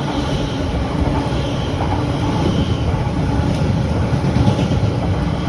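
Class 345 electric multiple-unit train passing through the station: a steady rumble of wheels on the rails, with a faint high whine over it.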